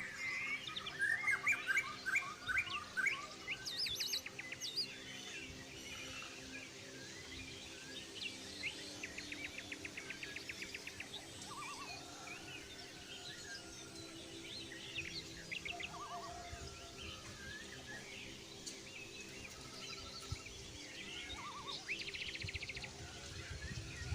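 Several birds chirping and calling, with varied short whistles and a rapid trill in the middle, over a steady low drone.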